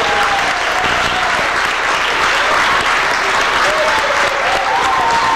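Audience applauding steadily, with voices calling out over the clapping, more of them near the end.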